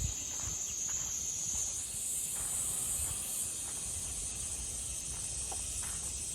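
Outdoor ambience: a steady high-pitched hiss over a faint low rumble, with a few soft ticks.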